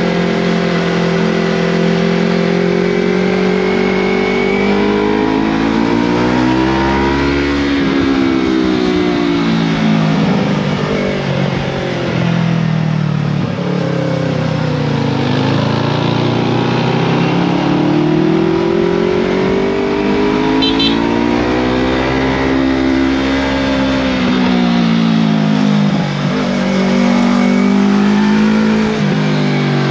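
Yamaha MT-03 motorcycle with a Scorpion full-system exhaust, running under way, its engine note rising and falling again and again over several seconds as the throttle opens and eases.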